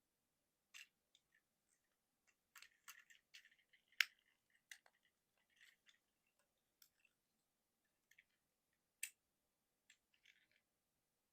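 Plastic Transformers action figure being transformed by hand: scattered sharp clicks and short scrapes of its plastic parts moving and snapping into place, the loudest click about four seconds in and another about nine seconds in.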